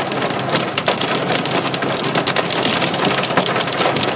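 Hail and heavy rain pelting a car's body, a dense, continuous clatter of countless small hits, heard from inside the car.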